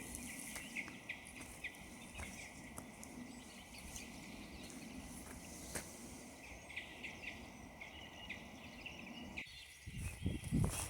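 Faint, scattered bird chirps over a quiet background hush. Near the end, footsteps on frozen ground start up again.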